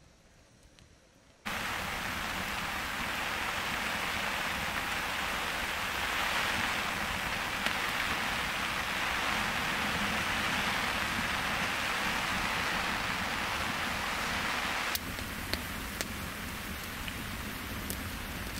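Heavy rain falling, a dense steady hiss that cuts in suddenly after a second and a half of near silence. Near the end it drops a little quieter, with a few sharp ticks.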